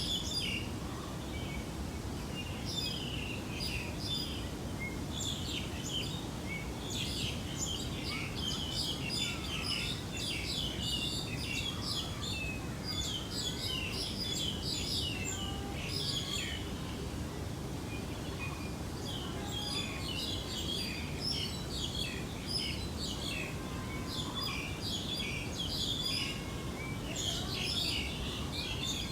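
Many small birds chirping and twittering in quick overlapping calls, over a steady low background noise.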